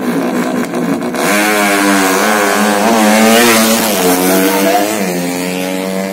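Drag-race underbone motorcycle engine revving hard at high revs, its note getting louder about a second in and wavering up and down before easing slightly near the end.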